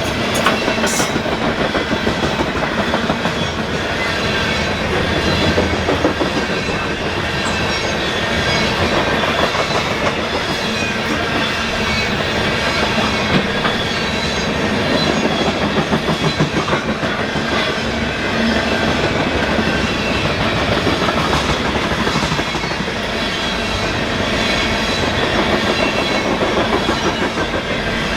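CSX freight train of coal cars rolling past, a steady, continuous clickety-clack of wheels over the rail joints.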